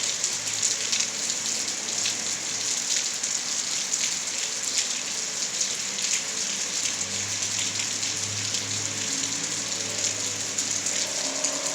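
Steady rainfall, with many individual drops ticking on nearby surfaces. A faint low hum comes in about seven seconds in.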